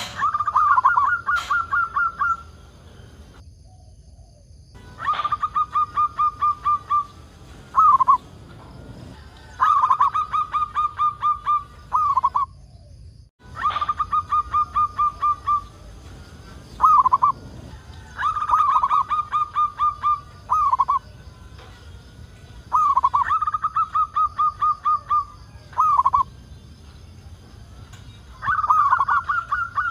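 Zebra dove (perkutut) singing its song over and over. Each phrase is a fast run of short, even cooing notes lasting about two seconds, followed by a separate closing note, and the phrase repeats about every four to five seconds. The sound cuts out briefly twice.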